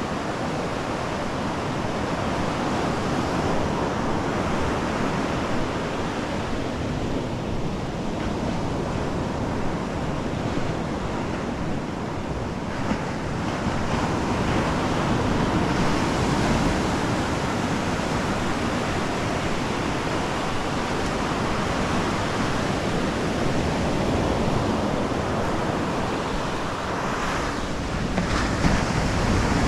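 Pacific Ocean surf breaking and washing up a sandy beach in a continuous rush, swelling louder about halfway through and again near the end as waves come in.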